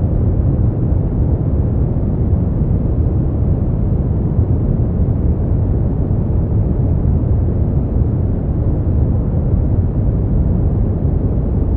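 Brown noise: a steady, unchanging deep hiss, heaviest in the bass and soft in the treble.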